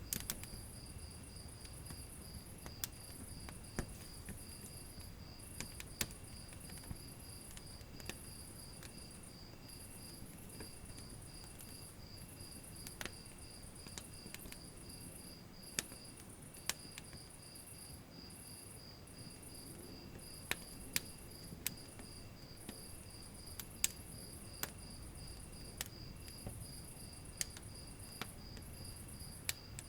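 Wood fire crackling in a fireplace, with scattered sharp pops and snaps over a low hiss. Throughout, a steady high-pitched chirping pulses about three times a second, pausing briefly about halfway through.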